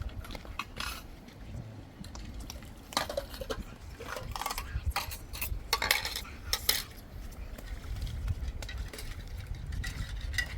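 Metal cutlery and spoons clinking and scraping against pots and dishes in irregular knocks, busiest in the middle.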